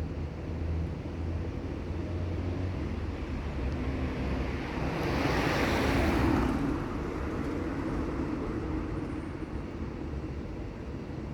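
Steady low traffic rumble, with a vehicle passing by that swells about five seconds in and fades away a couple of seconds later.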